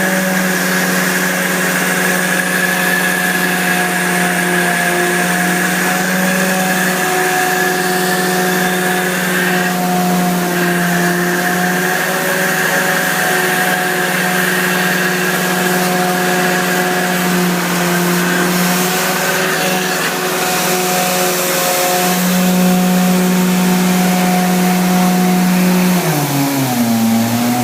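BlueLine Thermal Wave 5M truck-mount carpet cleaner, its engine and blower running steadily at speed with a constant hum. Near the end the pitch drops and wavers as the machine slows.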